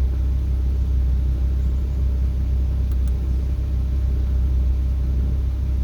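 Audi R8's 5.2-litre V10 idling steadily, a constant low rumble heard from inside the cabin.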